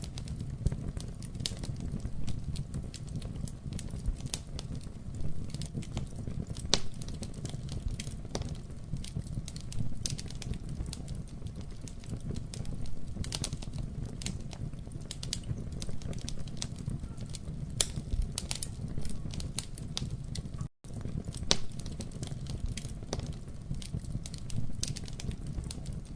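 Wood fire crackling and popping: frequent sharp, irregular snaps over a steady low rumble of flames. The sound cuts out for an instant about three-quarters of the way through.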